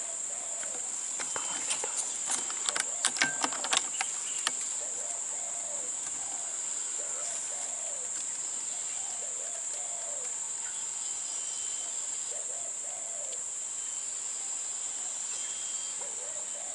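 Steady high insect drone, with spotted doves cooing repeatedly in low arched notes. A cluster of sharp clicks and knocks, the loudest sounds, comes between about two and four seconds in.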